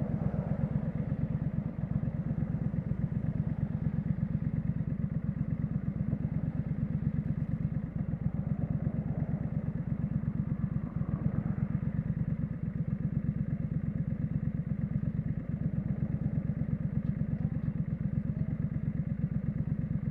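Triumph Street Scrambler's 900 cc parallel-twin engine running steadily through its exhaust, with an even train of low exhaust pulses and no revving.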